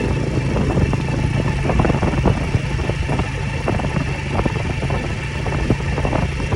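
A vehicle's engine running steadily under way, with a constant low drone, road noise and frequent small rattles and knocks.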